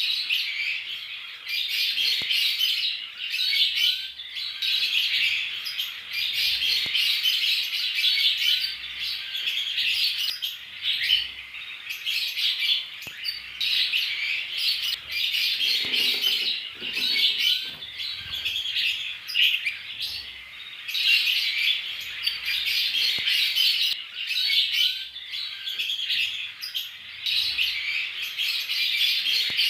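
A flock of Fischer's lovebirds chattering and chirping all together, a dense, continuous shrill twittering with no pause.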